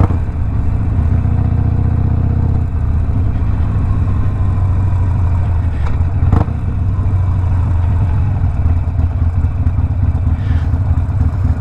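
Harley-Davidson Sportster Iron 1200's air-cooled V-twin, stage-one tuned with a Two Brothers 2-into-1 exhaust, running steadily under way with a heavy low rumble. Its engine note stands out more in the first couple of seconds, and there is a single sharp click about six seconds in.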